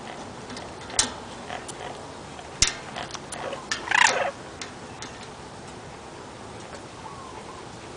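Parrots clicking, with sharp single clicks about a second in and again after two and a half seconds, then a quick run of clicks and a short, harsh call around four seconds in.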